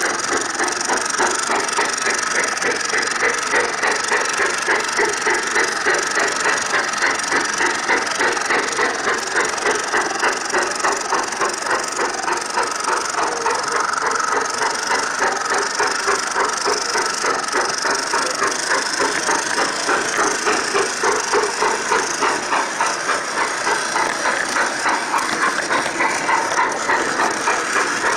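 Garden-scale model train running along the track: a steady, fast, regular beat over a continuous hiss.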